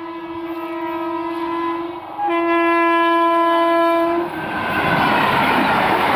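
Electric locomotive's horn sounding two long blasts as the express train approaches, the second louder. About four seconds in the horn stops and the loud rumble of the locomotive and coaches passing close by takes over.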